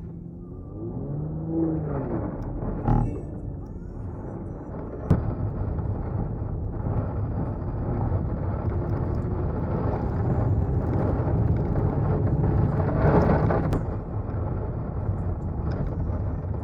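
Audi A6 C6's 3.0 TFSI supercharged V6 running on the move, with a steady low rumble of engine and tyre noise. The engine rises and falls in pitch about two seconds in. A single sharp knock comes about five seconds in, and the noise swells briefly before easing off near the end.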